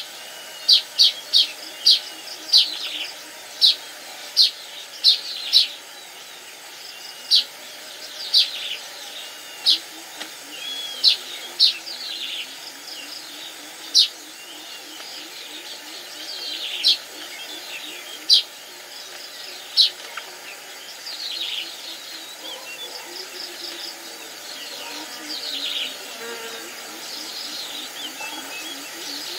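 Baya weavers calling: a run of short, sharp chirps, close together at first and then spaced out, with buzzy notes sliding downward in the second half.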